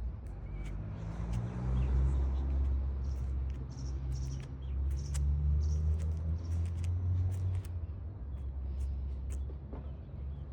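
A steady low rumble with many short, high chirps and clicks over it.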